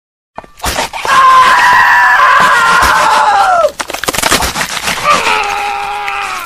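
A person screaming: two long screams, the first about two and a half seconds long and dropping in pitch as it ends, the second shorter and lower.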